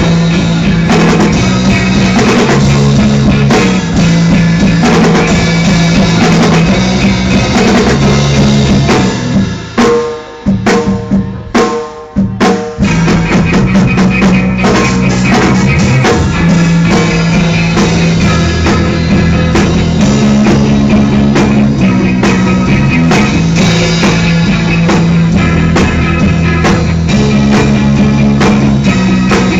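Live rock band playing loudly, led by a drum kit with bass drum and snare under bass and guitar. About ten seconds in, the band drops out to a few short stop-time hits for a couple of seconds, then comes back in full.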